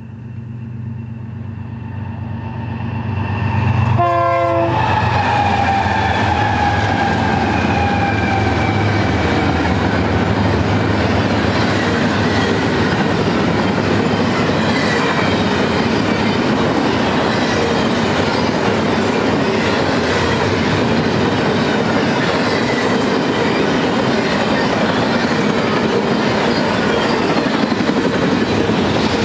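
BNSF GE diesel locomotives approach with a steady low engine hum that grows louder, then pass about four seconds in with a short horn blast; the tones that follow slide slowly lower. A double-stack container train then rolls steadily by with loud wheel-on-rail rumble and clatter.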